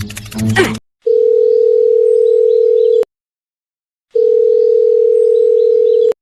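Music cuts off, then a steady electronic beep tone sounds twice. Each tone is about two seconds long, with about a second of dead silence between them.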